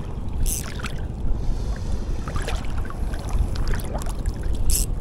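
Steady low wind rumble on the microphone with a faint wash of water, broken by two brief hissing sounds, one about half a second in and one near the end.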